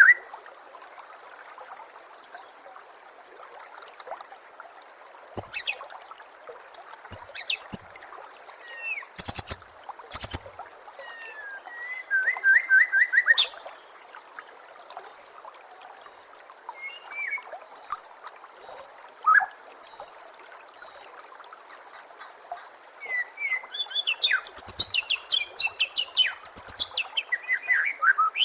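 White-rumped shama singing varied phrases over steady trickling water: sharp clicking notes, then a run of repeated notes at about two a second in the middle, and a fast, dense burst of notes near the end.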